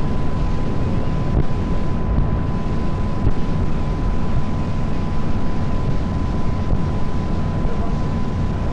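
A small tour boat under way: its engine running steadily at speed, mixed with wind buffeting the microphone, and a thin steady whine held throughout.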